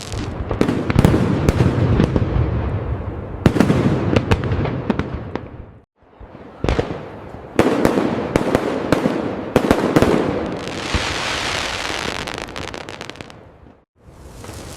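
Fireworks display: a rapid string of sharp aerial bangs with rumbling tails, then a long crackling burst that fades away near the end. The sound drops out briefly twice, about six seconds in and again near the end.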